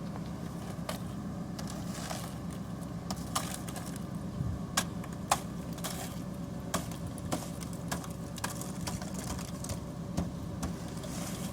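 Truck engine idling steadily as a low hum, with scattered sharp clicks and cracks over it.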